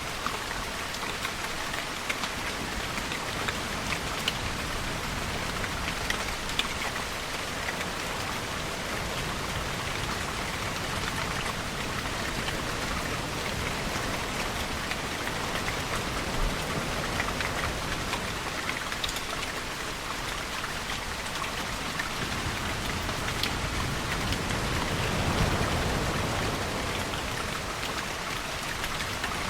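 Steady rain falling on surfaces, with scattered distinct drop ticks. A low swell rises and fades near the end.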